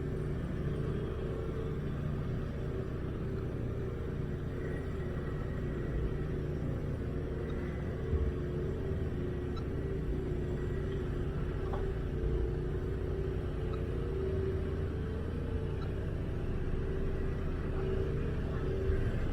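Engine of a snow-clearing machine running steadily under work, with a low rumble and a steady drone.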